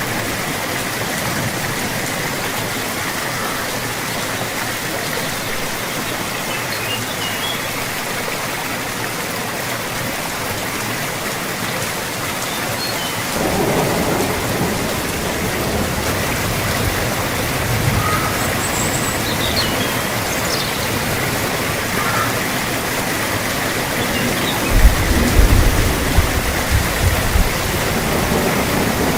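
Steady rain falling, an even hiss that grows fuller about halfway through. Near the end, low rumbles of thunder roll in.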